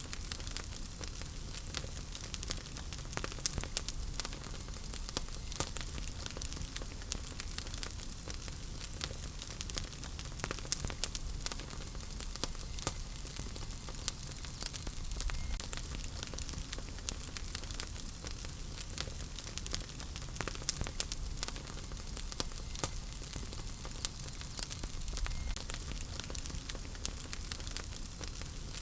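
Wood fire burning in a fireplace: a steady low rumble and hiss with frequent sharp crackles and pops from the burning logs.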